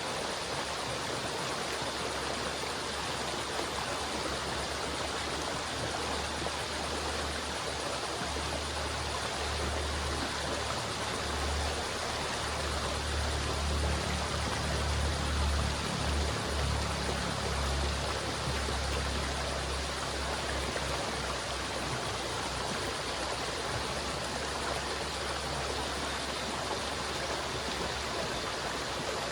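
River water flowing steadily. A low rumble swells up in the middle and fades again.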